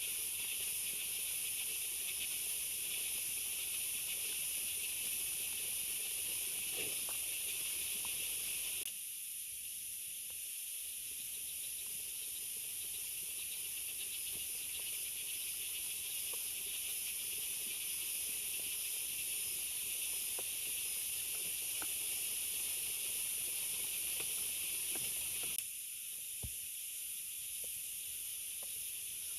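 Steady hiss of heavy rain with a few faint scattered taps; the level drops abruptly about nine seconds in and again near the end.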